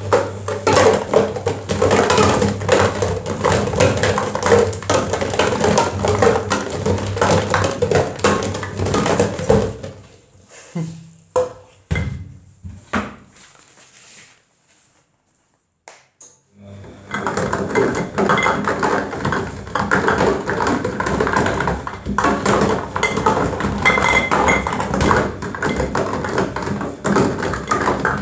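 Washing machine running, with a low motor hum and a dense, continuous rattle and clatter of things tumbling in the drum. It thins to a few separate knocks, goes almost quiet for a couple of seconds, then resumes just as densely.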